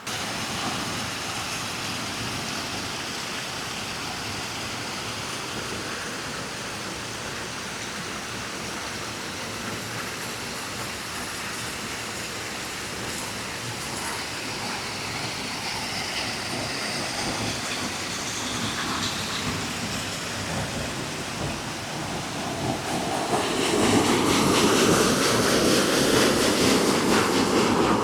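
Steady rushing of flowing water. From about twenty-three seconds in, a train passing on the line grows louder over it, with wheel clatter and a wavering rumble.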